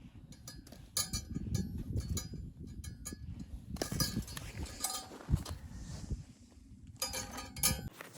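Light metallic clinks and knocks in short clusters, some ringing briefly, over a low uneven rumble, like metal objects being handled and set down.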